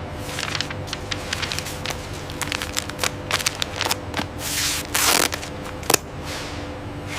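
Processing-line machinery clattering, with rapid irregular clicks and rattles over a steady hum. A hiss swells about four and a half seconds in, and a sharp knock follows near six seconds.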